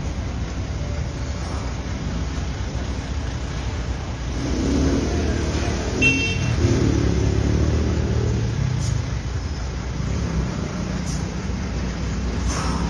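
FAW truck engine running under load on an uphill bend, its low rumble swelling for a few seconds from about four and a half seconds in. A brief high-pitched tone sounds about six seconds in.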